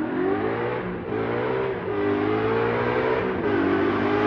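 Ford Boss 302 Mustang's 5.0-litre V8, loud through long-tube headers and open side pipes, revving: the pitch climbs, falls back about a second in, climbs again, falls once more past three seconds and climbs again.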